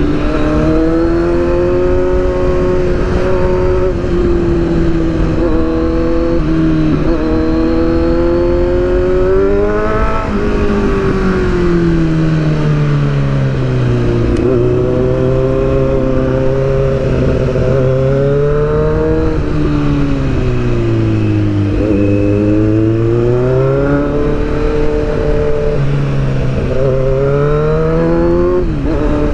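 Sport motorcycle engine running at speed, its pitch rising and falling several times as the throttle is opened and eased off, over a steady rush of wind noise.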